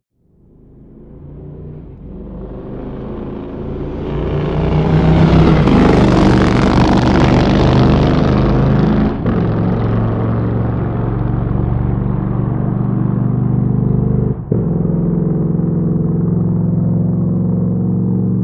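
Motorcycle engine running, growing louder over the first five seconds or so, then holding loud and steady, with two brief drop-outs about nine and fourteen and a half seconds in.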